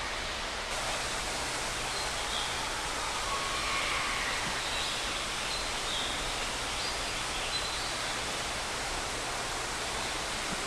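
Steady rushing of water from an indoor aviary waterfall, with a few faint short bird chirps over it.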